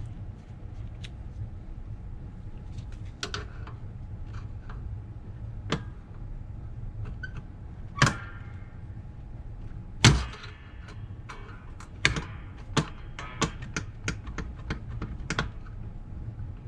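Side cutters and steel brake parts clinking and knocking while a stubborn spring retainer is worked off a Rolls-Royce Phantom III front brake backing plate. Two loud ringing metal knocks come about eight and ten seconds in, then a quick run of lighter clicks.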